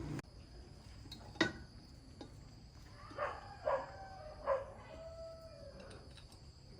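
A low running sound cuts off abruptly at the start, followed by a sharp click. Then an animal gives three short calls and a longer drawn-out one.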